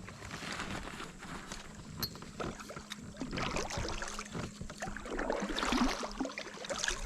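Kayak on the water: irregular splashing and small knocks against the plastic hull.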